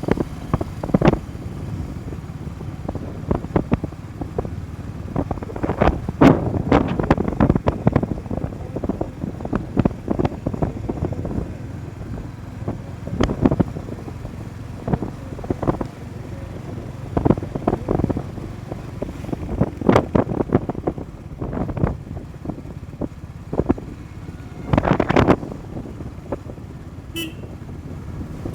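Motorcycle being ridden along a road, its engine running under a steady rumble with frequent irregular bursts of noise. A brief horn toot sounds near the end.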